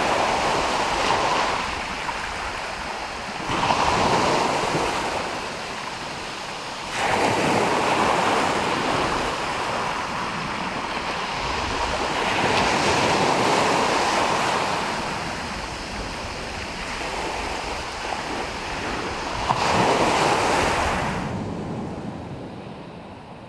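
Sea surf: waves breaking and washing in, swelling and ebbing every few seconds, fading down near the end.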